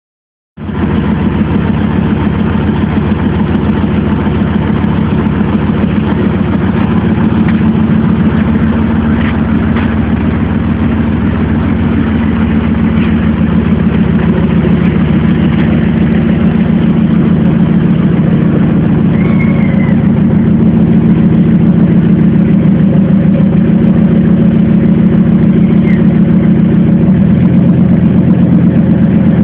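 Supercharged 5.4-litre V8 of a 2000 Ford SVT Lightning, fitted with an aftermarket cam and Borla exhaust, idling steadily. Its note shifts slightly near the end.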